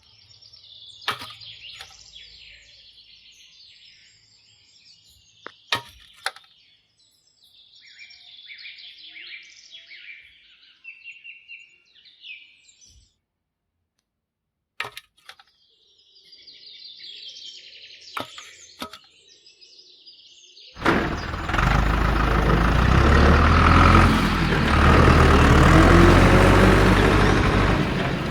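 Small birds chirping, broken by a few sharp clicks or taps. About three quarters of the way through, a loud steady noise with a low rumble starts suddenly and drowns everything else.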